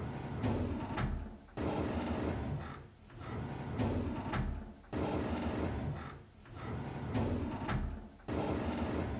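A drawer sliding on its runners, over and over: about six slides of about a second and a half each, each starting abruptly, with a sharp click at the end of some.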